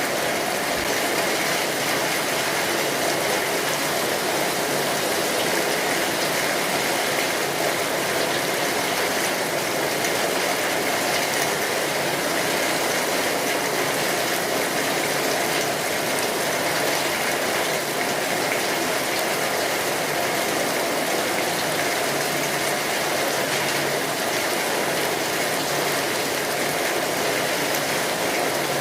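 Steady rainfall, a dense even patter of raindrops that holds at the same level throughout.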